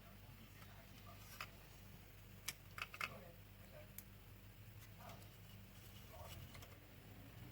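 Near silence: a faint steady low hum with a few scattered light clicks and taps, about five in the first half.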